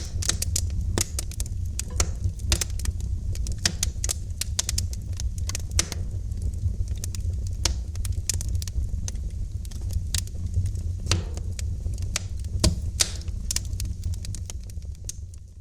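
Wood fire in a fireplace crackling: irregular sharp pops and snaps over a steady low rumble. It fades down near the end.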